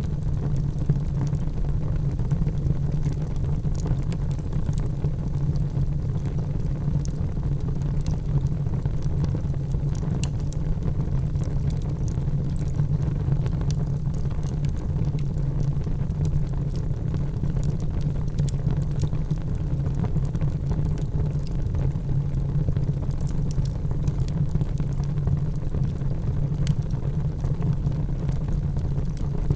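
Wood fire in a fireplace crackling, with scattered small pops and clicks over a steady low rumble.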